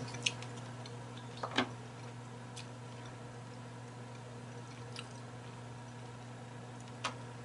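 Quiet chewing of mussels, with a few soft mouth clicks and smacks scattered through it, the clearest about a second and a half in, over a steady low hum.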